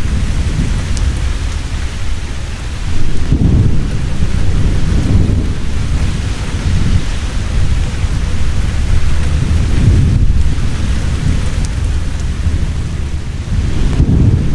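Heavy rain falling steadily with rolling thunder rumbling underneath, the rumble swelling about three seconds in and again near the end.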